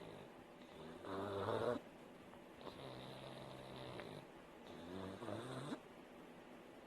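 Pug snoring in its sleep, a snore on every breath. The louder snores rattle, and the loudest comes about a second in.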